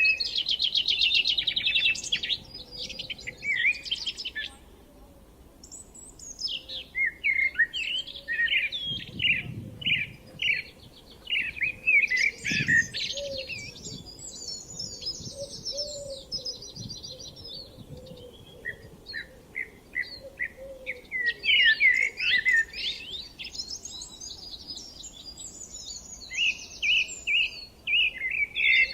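Songbirds singing in a spring chorus: overlapping phrases of quick chirps and rapid trills, with a short lull about five seconds in.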